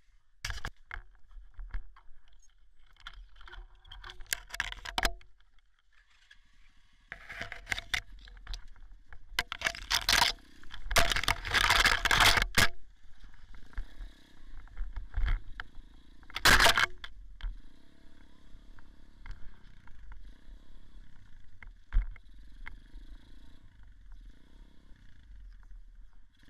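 Dirt bike ride heard on an action-camera microphone: a small motorcycle engine running steadily under loud gusts of wind and rubbing noise on the mic. The loudest stretches come about four seconds in, from about seven to thirteen seconds, and again around sixteen seconds, with scattered knocks from bumps.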